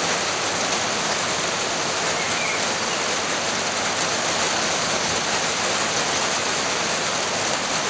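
Steady rain falling on wet stone patio slabs, an even hiss of drops with no breaks.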